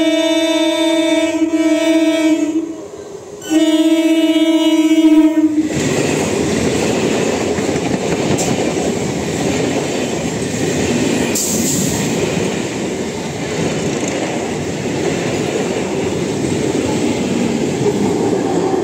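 Electric multiple-unit (EMU) local train sounding two long horn blasts, then passing close by with a steady loud rush of wheel and coach noise.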